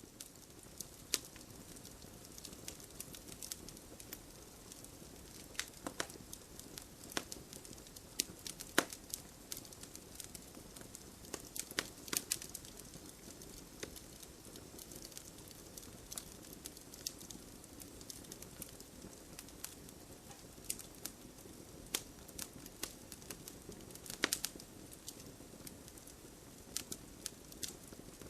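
Wood campfire burning: a steady soft hiss with frequent sharp crackles and snaps, a handful of them much louder pops.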